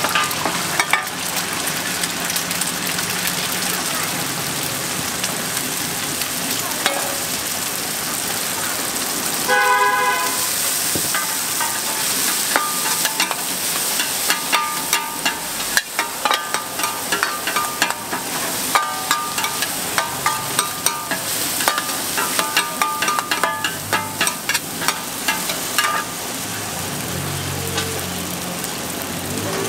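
Egg and rice noodles sizzling in oil on a large flat steel pan, with two metal spatulas scraping and clinking rapidly against the pan from about twelve seconds in as the noodles are stir-fried. A brief pitched tone sounds about ten seconds in.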